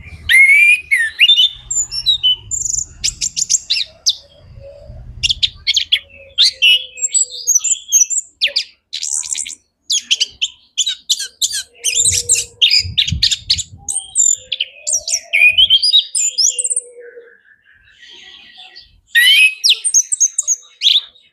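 Chestnut-capped thrush (anis kembang) singing a rapid, varied song of chirps, trills and whistled phrases in long runs, with a short pause near the end before one more run.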